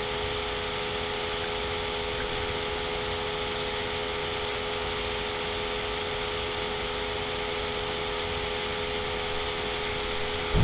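Steady background hum and hiss with a few constant tones and no distinct events.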